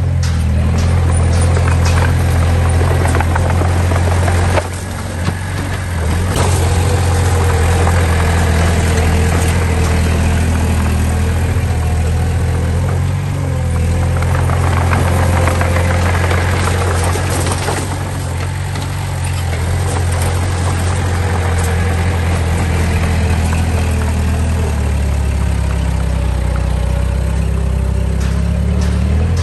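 Diesel engine of earthmoving machinery running steadily: a deep, continuous drone, with a brief dip in level about four and a half seconds in.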